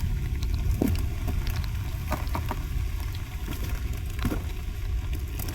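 Heavy rain falling, with a steady low rumble and a few scattered sharp taps.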